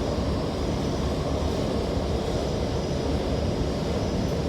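Steady running rumble inside a moving Rotem EMU metro train, heard from inside the car, with a faint high hiss above it.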